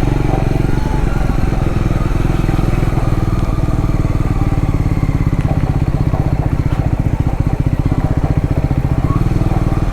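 Triumph Scrambler 400X's single-cylinder engine running steadily at low speed, its firing pulses coming in a fast even beat.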